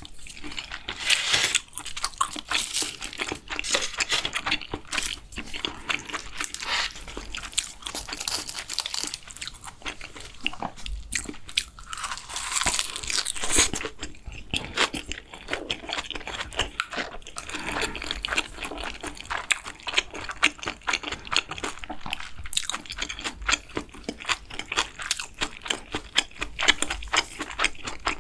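Close-miked eating sounds: mouthfuls of Korean food being chewed, crunching and squishing, with many short crisp clicks throughout.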